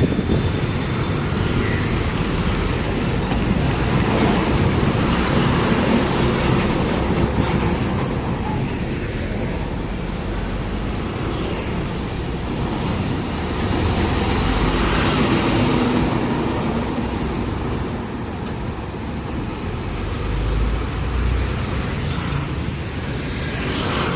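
Road traffic: heavy trucks and coaches driving past one after another. The engine and tyre noise swells and eases several times.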